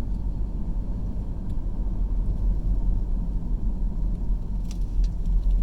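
Car driving on a winding rural road, heard from inside the cabin: a steady low rumble of engine and tyre noise.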